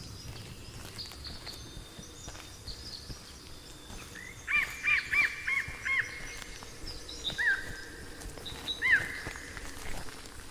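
Birds calling in forest: thin high chirps throughout, a quick run of about five loud rising-and-falling calls about halfway through, then two more a few seconds later.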